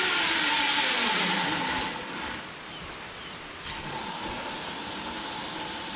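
Zipline trolley running along a steel cable: a loud rushing whir with a steady tone that drops away about two seconds in, leaving a quieter rushing background.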